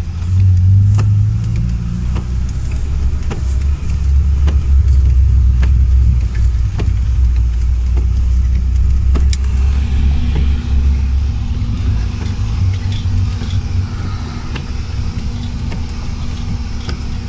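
Lada Niva's engine heard from inside the cabin while driving slowly over a rough, muddy dirt track: a low, steady drone that drops in pitch about four seconds in, with scattered short clicks and knocks throughout.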